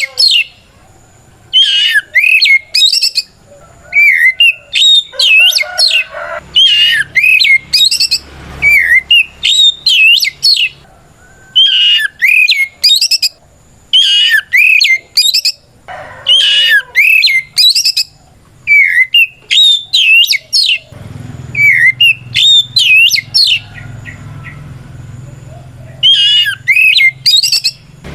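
Oriental magpie-robin singing its loud 'ngeplong' challenge song, calling out a rival. The song comes in rapid bursts of sweeping, varied whistled notes with short pauses between them, and a longer pause a little over three-quarters of the way through.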